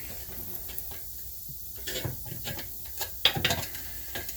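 Light metal clicks and knocks of a replacement wheel hub assembly being handled and seated against the knuckle, starting about two seconds in, with one sharper click a little after three seconds.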